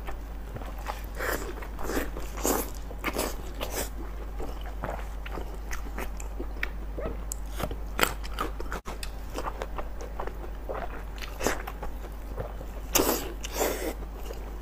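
Close-up, wet chewing and biting of a chewy, chili-sauced offal bundle, with a run of irregular sticky mouth smacks. A couple of louder smacks come about eight seconds in and again near the end.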